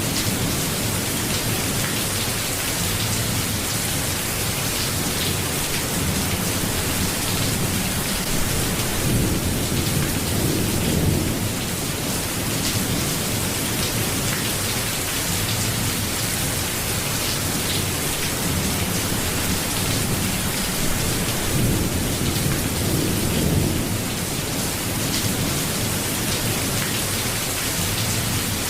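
Steady rainfall, with low rolling rumbles that swell and fade twice.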